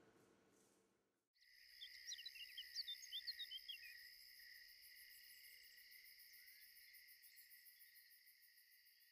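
A faint chorus of crickets trilling steadily at several high pitches with a fast pulse. It starts suddenly about a second in. A cluster of short, quick chirps sounds over it about two to four seconds in.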